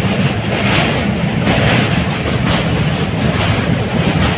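Train running on rails: a steady loud rumble, with short clicks of the wheels over the rail joints repeating about once or twice a second.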